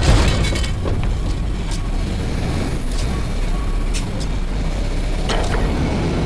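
Front-load garbage truck's diesel engine running steadily with a low rumble, with a few short knocks and clicks over it.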